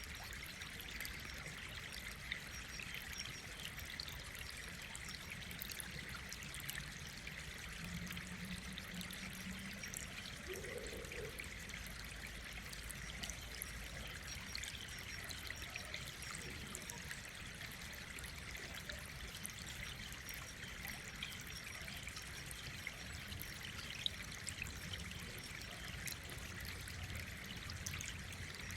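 Faint, steady running water, like a trickling stream or a pour, with a few light clicks.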